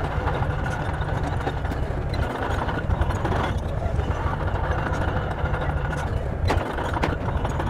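Bulldozer's diesel engine running steadily under load, with a few sharp knocks near the end.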